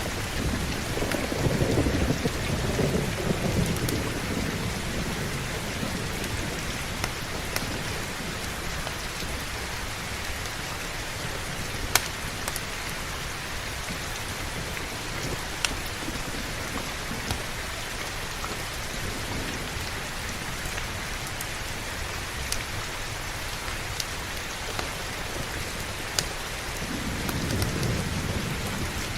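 Steady heavy rain with rolling thunder, a low rumble for the first few seconds and another building near the end. A few sharp crackling pops from a wood fire stand out now and then.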